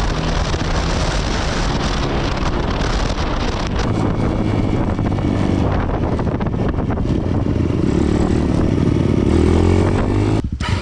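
Dirt bike engine running hard while riding, with the revs climbing about eight seconds in, a brief drop near the end, then climbing again.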